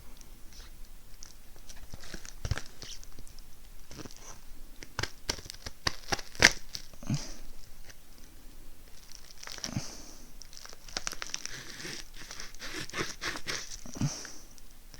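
Knife cutting and prying at a product's plastic packaging: irregular clicks and taps with crinkling and scraping, and one sharper snap a little past six seconds in.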